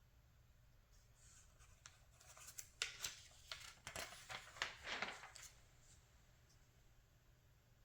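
Magazine page being turned by hand: a faint, brief rustle and crinkle of paper with a few crisp clicks, around the middle.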